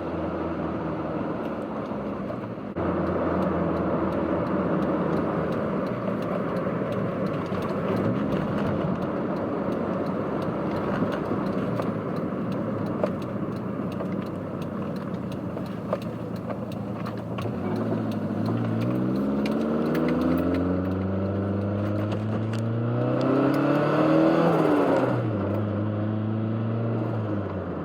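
Turbocharged 1991 Toyota MR2's four-cylinder engine and intake under way, running steadily and then accelerating with a steadily rising pitch for several seconds, before the revs drop suddenly near the end as the throttle is lifted.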